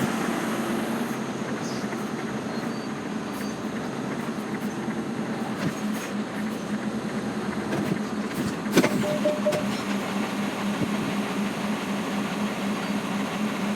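Articulated lorry's diesel engine running steadily at low speed, heard from inside the cab, with a sharp knock about nine seconds in.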